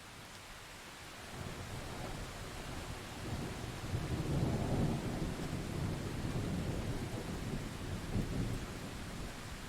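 A long rolling rumble of thunder over steady rain: it builds about a second in, is loudest about halfway through, then slowly dies away.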